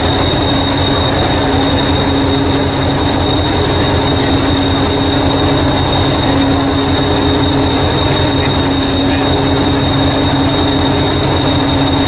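A train running on the rails, with a steady high whine over a fast, even low rumble. It cuts off suddenly just after the end.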